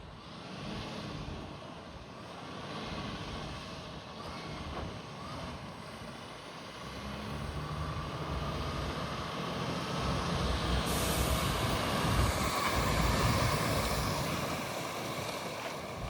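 Diesel engine of a MAN TGS 41.480 8x8 truck running, growing louder through the second half.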